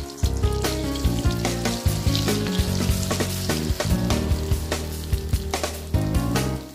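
Oil sizzling and crackling around an egg omelette frying in a wok, with a spatula pressing and scraping against the pan. Background music plays underneath.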